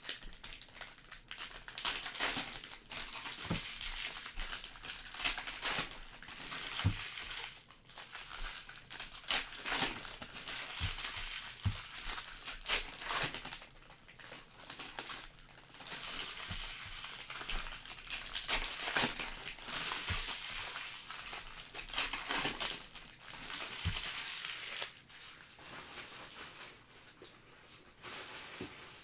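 Trading card pack wrappers from a Panini Prizm basketball hobby box being torn open and crinkled, in stretches of crackling with small clicks and taps between them.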